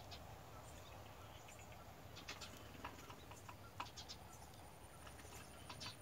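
Faint, scattered short bird chirps over a low background rumble, with a thin high steady tone near the end.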